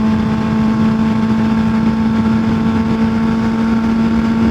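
Kawasaki ZX-6R 636 inline-four sport bike engine running at a constant pitch while riding at a steady speed, over a steady rush of wind and road noise.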